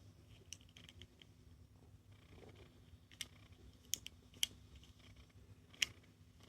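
Faint, scattered clicks and taps of a small plastic capsule toy being handled, about half a dozen sharp ones, over a low steady hum.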